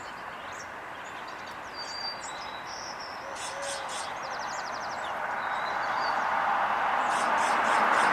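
Small songbirds chirping, with a couple of quick rattling trills, over a traffic-like rush that grows steadily louder as a vehicle approaches.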